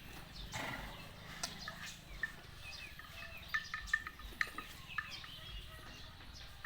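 Birds chirping in short, scattered calls, several of them bending in pitch, over a faint steady background.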